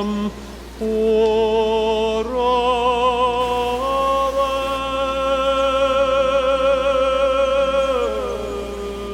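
Music: a singing voice holding long notes with heavy vibrato, climbing in steps and sliding down near the end.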